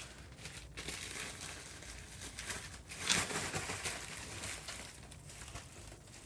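Rustling, crinkling handling noise, louder for a moment about three seconds in.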